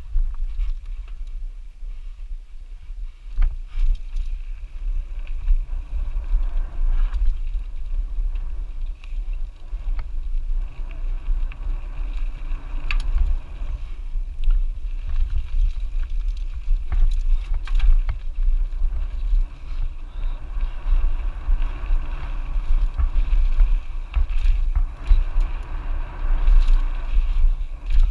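Mountain bike running down a rough dirt trail, heard from a bike-mounted camera: a steady deep rumble of wind on the microphone, with tyre noise and scattered knocks and rattles from the bike over bumps.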